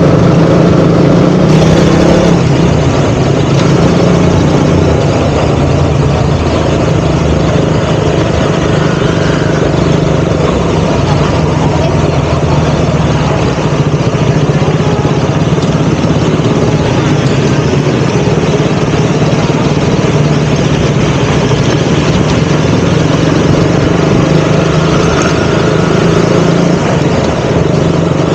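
KTM Duke 200's single-cylinder four-stroke engine running steadily at low, even revs, with no revving up or down.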